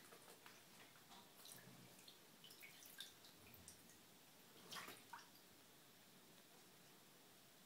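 Faint small splashes and drips of water in a bathtub as a mallard duckling paddles and dabbles, scattered over about five seconds.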